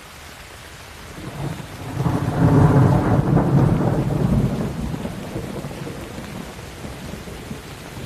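Steady rain with a roll of thunder. The thunder swells about a second in, is loudest over the next few seconds, then fades away, leaving the rain.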